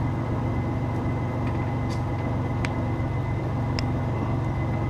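Mitsubishi Pajero's 3.0 V6 engine idling steadily, with a few faint ticks over it.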